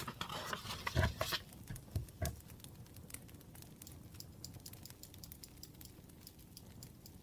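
Rustling with soft knocks about one and two seconds in, like things being handled on a desk. Then faint, scattered crackling of a wood fire.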